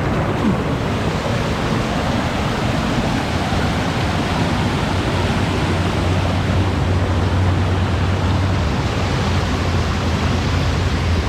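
Steady rush of a small waterfall close to the microphone, an even roar of falling water with a deeper rumble that strengthens about halfway through.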